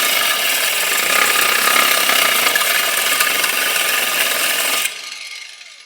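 Cordless power tool running flat out on a fresh battery, a loud steady grinding noise with a faint whine in it, then released about five seconds in and winding down.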